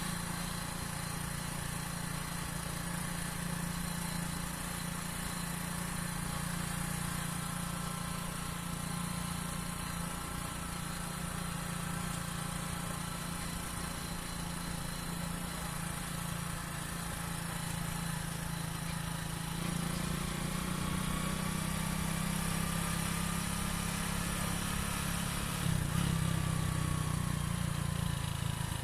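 Splendor motorcycle's single-cylinder four-stroke engine running steadily, its note rising a little about two-thirds through and again near the end.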